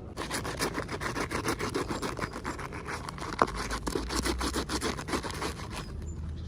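Hands rubbing and crinkling packaging or small toy parts: a dense run of rapid crackles and scrapes, with one sharp click about three and a half seconds in.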